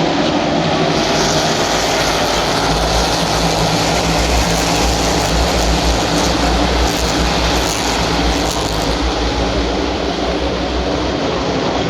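NASCAR Cup stock cars' V8 engines running at race speed around the track, a continuous loud rumble that swells between about one and nine seconds in as the pack goes by.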